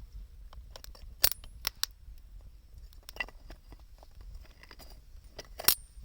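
Wood fire crackling, with scattered sharp pops; the loudest come about a second in and near the end, over a low steady rumble.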